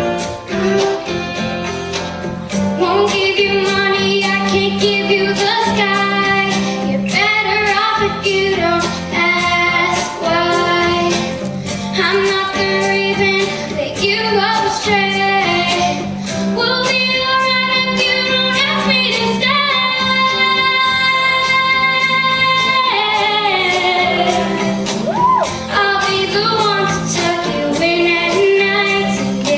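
A young girl singing a pop song over a backing track with a steady beat, holding one long note about two-thirds of the way through.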